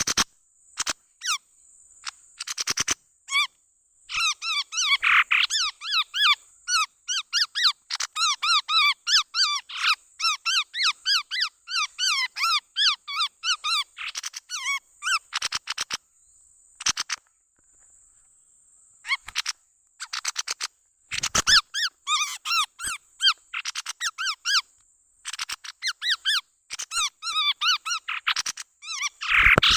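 Chestnut-rumped babbler calls played as a bird-trapping lure: bouts of rapid, squeaky chirping notes with short pauses between the bouts, over a faint steady high hiss.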